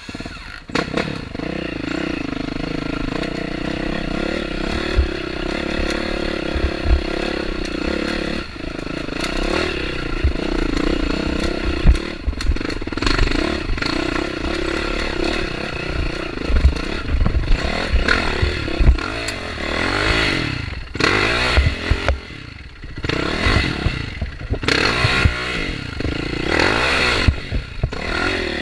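Dirt bike engine running while riding off, steady at first, then revved up and down again and again in the second half, with clatter and knocks from the bike over rough ground.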